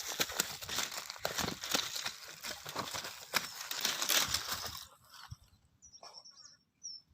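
Dense crinkling and crunching, like something being handled or rustled, for about five seconds; then it stops and a bird chirps a few times near the end.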